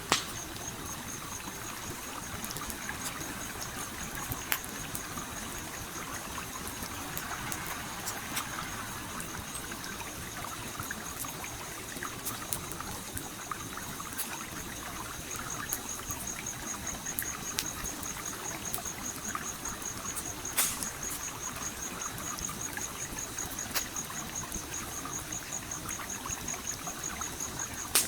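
A stream flowing steadily while a wood campfire crackles, with scattered sharp pops standing out. A high, fast-pulsing trill runs through most of it.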